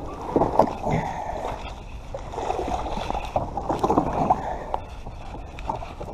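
Plastic kayak hull being handled and climbed into: irregular hollow knocks and scraping, busiest just after the start and again from about two to four and a half seconds in.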